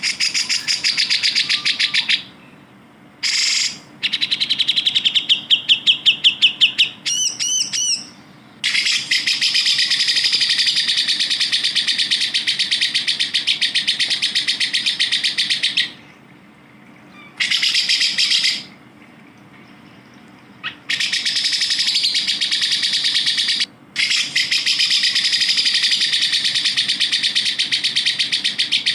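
Cucak jenggot (grey-cheeked bulbul) singing in long, rapid chattering phrases of fast repeated high notes, broken by a run of separate whistled notes a few seconds in and by abrupt pauses between phrases.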